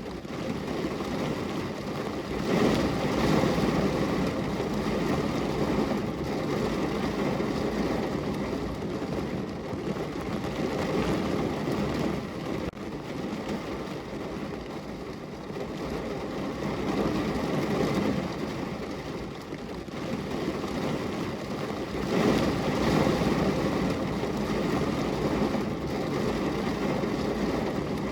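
Heavy rain falling on a car's roof and windows, heard from inside the car: a dense, steady patter that swells louder a few times.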